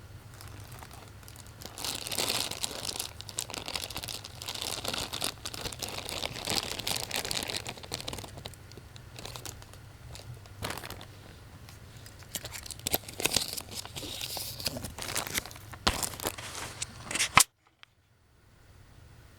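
Crinkling and rustling of plastic packaging being handled, with scattered clicks, cutting off abruptly near the end.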